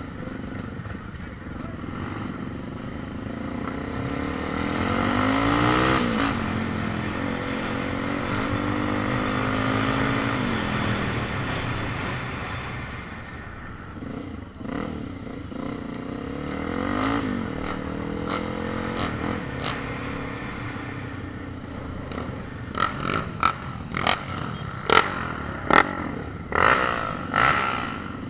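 A vehicle engine revving up and down. Near the end come a quick run of sharp knocks and clatters.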